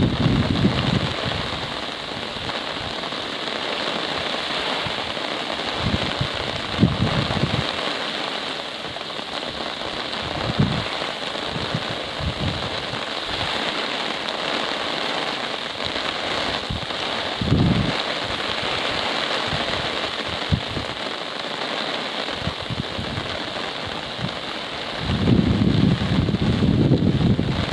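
Steady rain falling, an even hiss. Wind buffets the microphone in short low gusts, with a longer stronger spell near the end.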